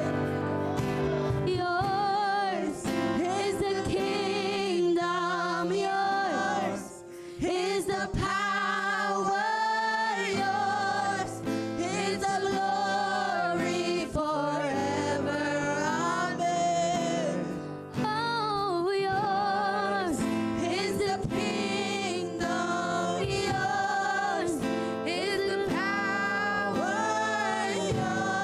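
Gospel worship song: voices singing a melody with vibrato over steady instrumental accompaniment.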